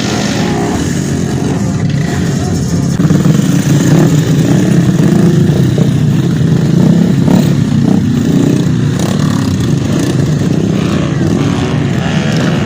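Motocross trail bike engines revving and running hard, louder from about three seconds in.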